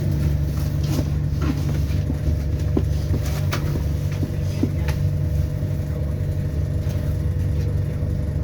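ADL Enviro400 Hybrid double-decker bus heard from inside the cabin while under way: a steady low drivetrain rumble with a constant faint whine on top. Scattered short rattles and clicks come from the interior.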